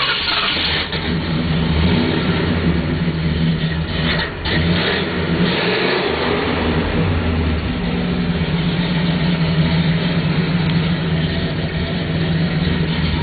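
Ford 429 Thunderjet V8 with new dual exhaust running steadily just after starting. Its speed shifts slightly, with a brief dip about four seconds in.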